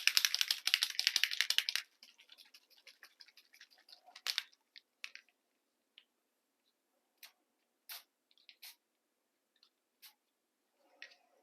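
Ink spray bottle sprayed in quick repeated pumps, a dense run of hissing puffs lasting about two seconds. Then a few scattered light taps and clicks from handling the supplies.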